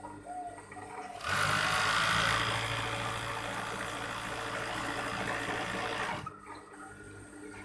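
Overdeck (coverstitch) sewing machine running a seam at steady speed. It starts abruptly a little over a second in and stops abruptly after about five seconds, loudest just after it starts.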